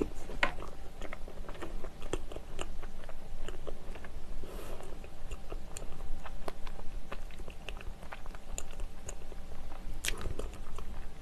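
Close-miked chewing of a soft cream cheese brioche topped with strawberries and blueberries, with many small wet mouth clicks and a couple of sharper clicks.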